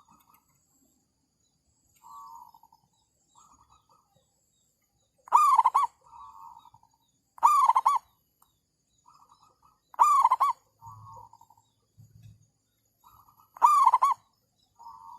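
Zebra doves cooing back and forth. Loud cooing calls about every two and a half seconds from about five seconds in, with softer trilling coos from another bird in between.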